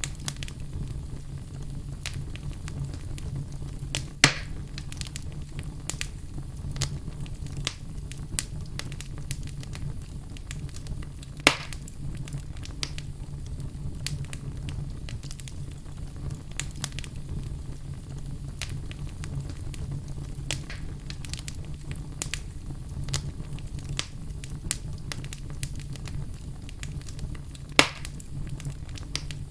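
Wood fire burning in a fireplace, crackling steadily with many small ticks over a low rumble. Three louder pops come about four seconds in, near the middle and near the end.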